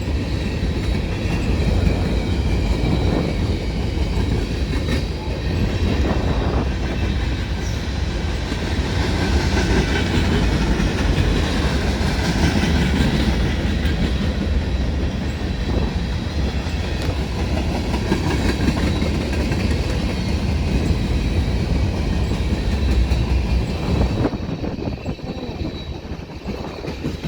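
Freight train cars rolling past, a steady low rumble with wheels clicking over the rail joints, growing quieter in the last few seconds.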